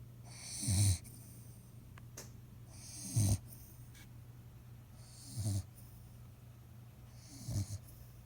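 A sick dog snoring: four snores about two seconds apart, each a low rattling snore with a breathy hiss.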